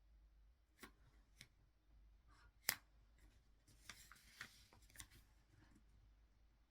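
Small handling noises: a few sharp clicks, one much louder click near the middle, then a short rustle with more clicks about a second later.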